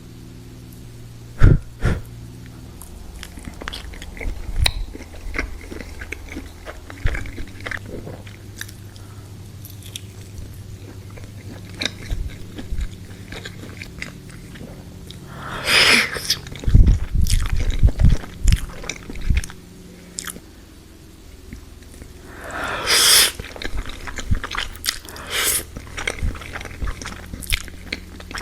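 Close-miked eating: a person chewing and biting into spicy noodles and spring rolls, with scattered wet clicks and smacks over a low hum, and two louder rushing swells, one a little past halfway and one later on.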